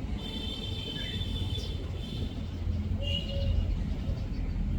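Birds chirping in two spells of high calls, the first about two seconds long and a shorter one about three seconds in, over a steady low rumble.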